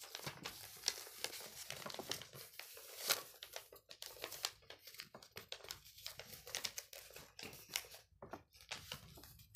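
Sheet of paper being folded and creased by hand into a paper airplane: faint, irregular crinkling and rustling.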